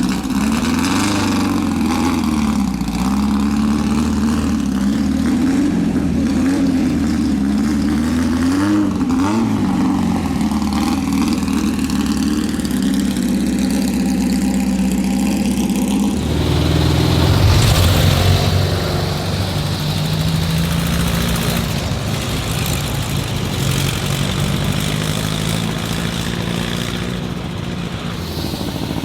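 Old car engines running, the engine speed rising and falling. About sixteen seconds in, a deeper, louder engine comes in, at its loudest a couple of seconds later, then easing off.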